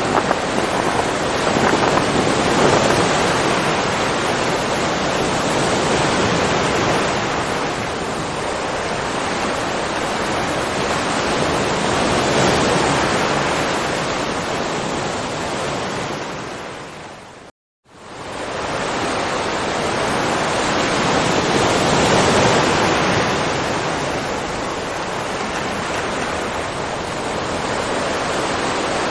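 Ocean surf: a steady wash of waves that swells and eases every few seconds. About two-thirds of the way through it fades to silence for a moment and fades back in, an edit between recordings.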